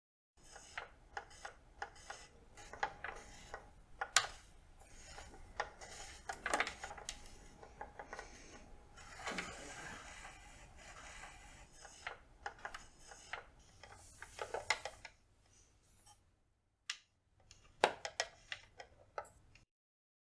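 Wooden Brio toy barn pieces being handled: irregular light clicks and knocks of wood on wood, with a stretch of sliding and rubbing about nine seconds in.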